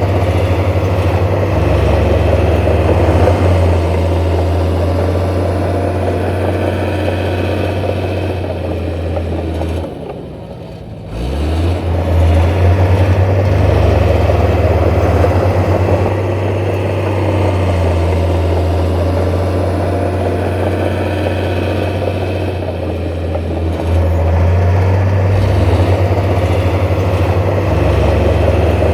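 Heavy earthmoving machinery running with a deep, steady diesel engine note. The sound drops away briefly about ten seconds in, then comes back with a short rise in pitch.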